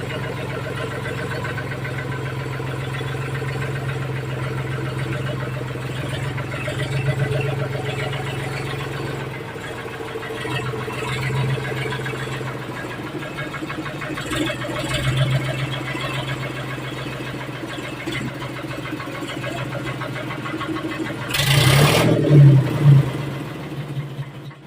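Tractor diesel engine running as the tractor is driven, rising and falling in pitch a few times. A loud burst of noise comes near the end.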